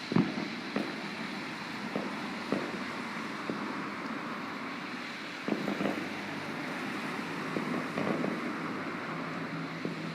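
Distant fireworks going off in scattered bangs and pops, irregularly spaced a second or two apart, over a steady hiss of wind on the microphone.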